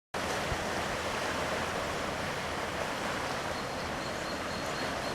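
Steady rushing of sea water with wind on the microphone, along the strait's fast-flowing water. A faint thin high tone joins about three and a half seconds in.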